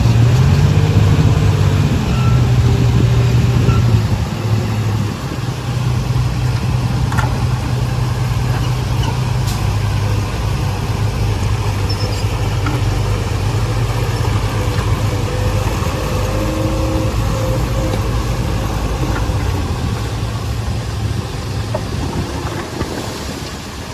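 Heavy machine's diesel engine running, its pitch stepping up and down as it works. Louder for the first four seconds, then easing off gradually toward the end.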